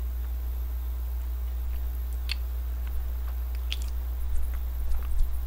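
A person chewing a soft glazed doughnut close to the microphone, with a few faint mouth clicks, over a steady low hum.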